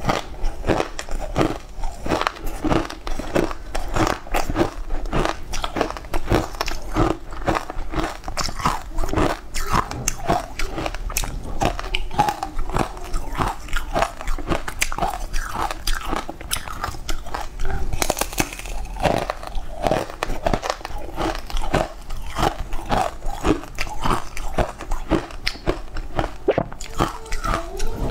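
Close-miked biting and chewing of a crunchy green food: a steady run of crisp crunches, several a second.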